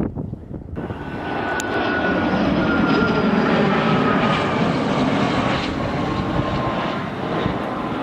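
Jet aircraft passing by, its engine noise swelling about a second in and holding, with a thin turbine whine that slides slowly down in pitch as it goes past.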